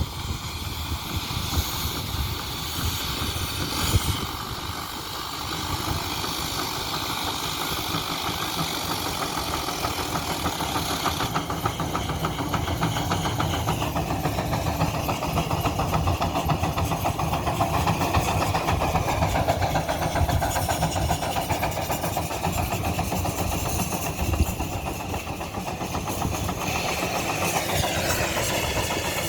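Antique engine running with a rapid, dense firing rhythm, its speed shifting a few times and climbing near the end.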